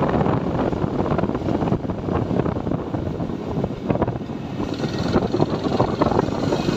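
TVS Apache 4V motorcycle running along the road at riding speed, its engine mixed with heavy wind rush on the microphone.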